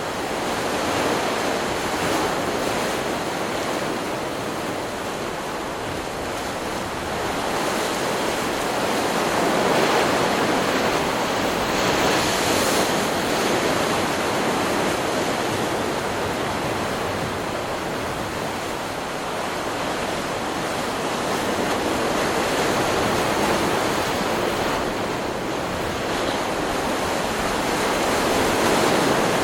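Ocean surf: waves breaking and washing onto a beach, a continuous rushing noise that swells louder and eases off every few seconds.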